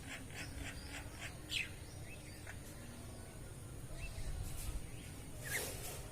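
Birds calling: a run of short, evenly spaced chirps, about three a second, in the first second, then scattered single calls, the loudest a sharp falling call near the end. A steady low rumble of wind or background noise lies under them.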